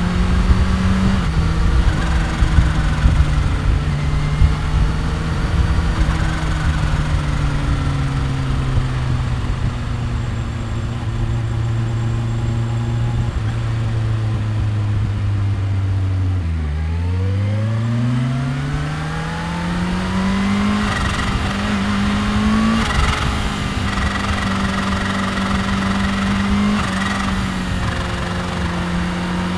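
2015 Kawasaki Ninja H2's supercharged inline-four engine and exhaust on the road. The note sinks slowly as the bike slows, dips low about halfway through, then climbs sharply as it accelerates away and holds steady at cruising speed, with a gear change just after the start and another about two-thirds in.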